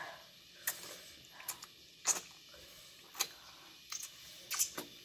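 Close-miked eating sounds: sharp mouth clicks and wet smacks of people chewing mouthfuls of rice and fish curry eaten by hand, about ten at irregular intervals.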